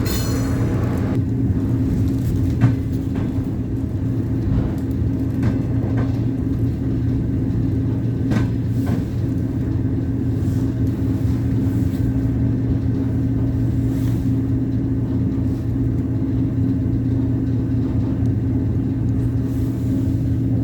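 ET2M electric multiple unit running: a steady low rumble and hum with a few short knocks scattered through it. A brief high squeal dies away about a second in.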